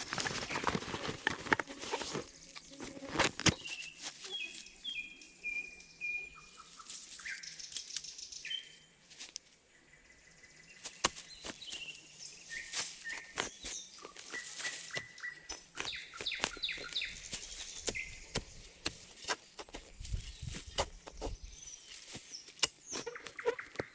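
Small birds calling and chirping in short high whistled phrases, over many irregular sharp clicks and knocks that are louder than the birdsong.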